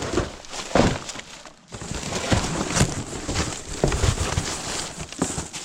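Rummaging by hand through discarded rubbish: irregular rustling, crackling and knocking of bags, cardboard boxes and loose items being moved about.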